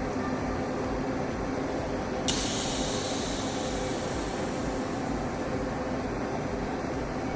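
A sudden hiss starts about two seconds in and fades out over the next few seconds, over a steady low hum.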